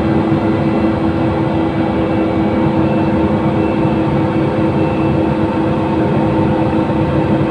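LiAZ-5292.67 city bus under way, heard from inside the cabin: a steady engine and drivetrain drone with a constant whine over it.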